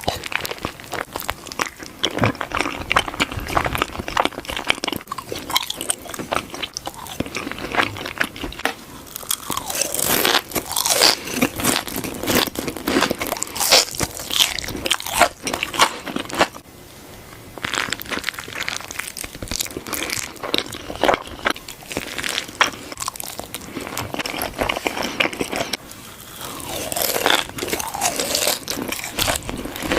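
Close-miked eating: a person biting and chewing crunchy food, with dense, irregular crunches and crackles. There are short pauses between mouthfuls, one about halfway through and another near the end.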